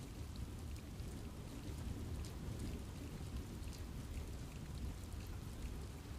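Steady rain falling in a forest, a low even patter with scattered individual drops ticking on leaves.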